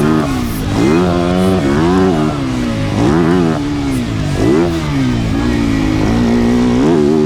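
Yamaha YZ motocross bike's engine being ridden hard, revving up and dropping back about once a second as the throttle is worked, then holding a steadier pitch near the end.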